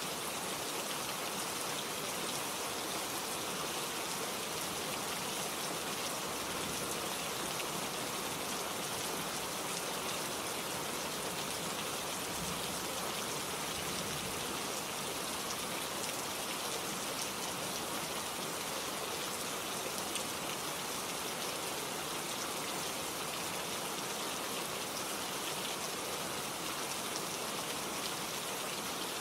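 Steady rain falling, an even patter of raindrops on foliage with no change in strength.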